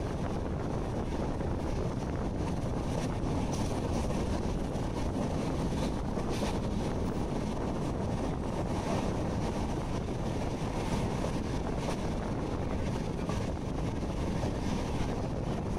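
A passenger train running at speed: a steady rumble of the coach on the track mixed with rushing air, and wind buffeting the microphone held out beside the coach.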